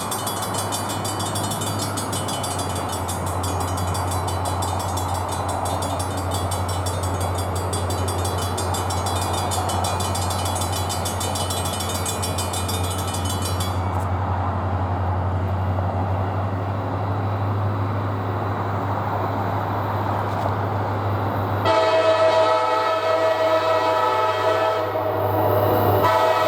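EMD SD40-2 diesel locomotive running by with a steady low engine rumble, a rapid high ticking over it for the first half. About three-quarters of the way in, its air horn sounds a multi-note chord, breaks briefly near the end and is blown again.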